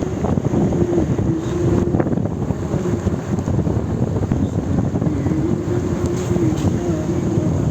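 Wind buffeting the microphone in a loud, steady rumble, with a faint wavering hum beneath it.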